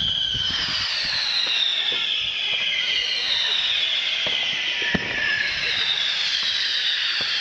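Fireworks display: several high whistling fireworks overlap, each sliding downward in pitch, with scattered sharp bangs and cracks among them, the clearest about five seconds in.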